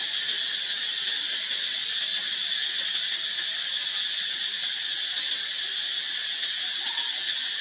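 Steady high-pitched hissing drone that does not change in level, with a faint short squeak about seven seconds in.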